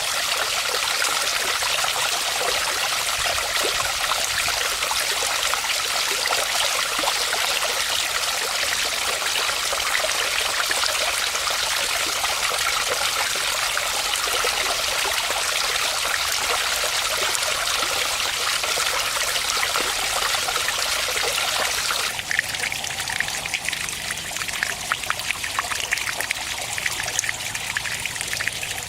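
Water running steadily over a small garden pond waterfall and splashing into the pond. About 22 seconds in, the sound changes suddenly to a lighter trickle with separate drips and splashes.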